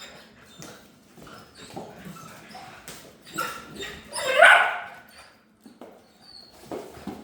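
German shorthaired pointer puppies scuffling and playing over a pheasant wing, with one loud rising puppy yip about four and a half seconds in.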